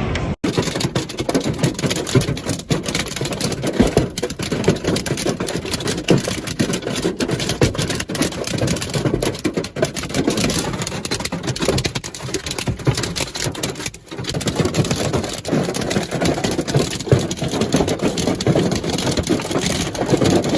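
Hail and heavy rain pelting down: a dense, continuous clatter of countless small impacts, with two brief breaks, one near the start and one about two-thirds of the way through.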